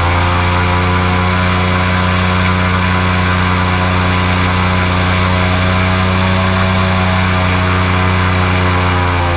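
Airboat engine and propeller running at full throttle at a steady high pitch. The engine finishes winding up just at the start and begins to drop in pitch near the end as the throttle comes off.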